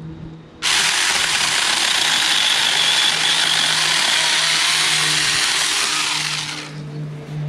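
Saker 4-inch mini electric chainsaw cutting through a tree limb. It starts suddenly about half a second in, runs evenly for about six seconds, and stops near the end as the cut is finished.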